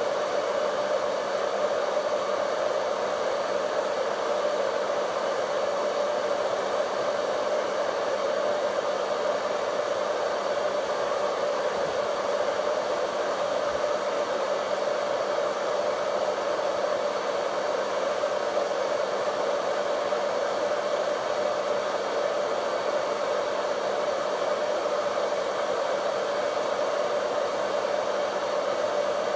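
Vidal Sassoon Hot Tools hair dryer running steadily on one speed setting: an even airflow hiss with a constant motor hum, no change in speed.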